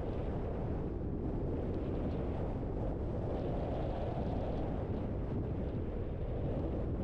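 Steady low rumble of a car driving: road and wind noise.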